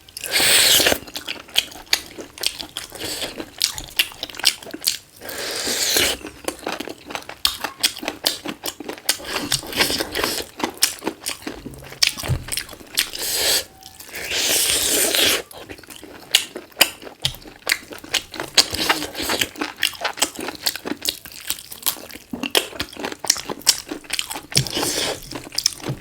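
Close-miked chewing and biting of black chicken pieces: continuous crunching and wet mouth clicks, with two longer hissy rushes, one about a second in and one just past the middle.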